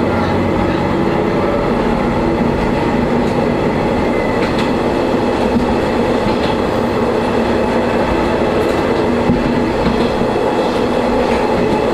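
Single-car diesel railcar running along the line, heard from inside the car: a steady engine drone with a few faint clicks of the wheels over rail joints.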